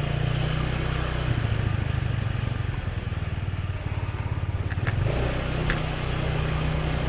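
Motorbike engine running at low riding speed, its pitch stepping up and down a few times as the throttle changes.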